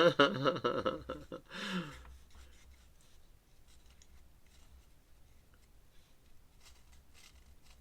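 A pen scratching faintly on paper in short strokes as a drawing is inked, after a brief bit of speech at the start.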